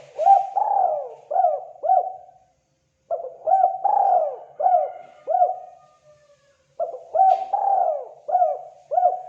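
Spotted dove (terkukur) cooing: three phrases, each a quick run of four or five throaty coos, with short pauses between them.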